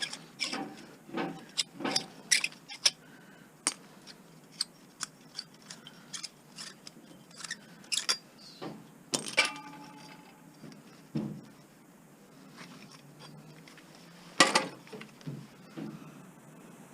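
Irregular metallic clicks, clinks and knocks of hand tools and small metal parts being handled. About nine seconds in, one knock leaves a brief metallic ring. The loudest clank comes about fourteen and a half seconds in.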